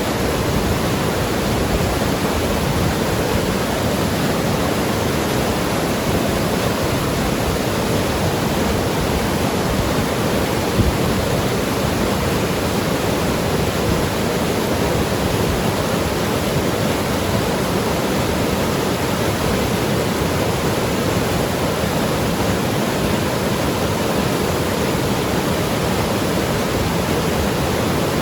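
Mountain river rushing and gurgling over rocks, a loud steady wash of water.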